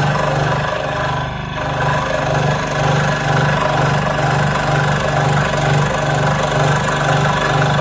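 An electric power tool's motor running steadily with a pulsing hum, easing briefly about a second and a half in.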